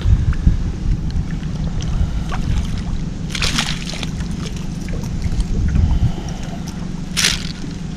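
Water sloshing and splashing against a small boat, over a steady low wind rumble on the microphone, with two short splashes: one about three and a half seconds in and one a little after seven seconds.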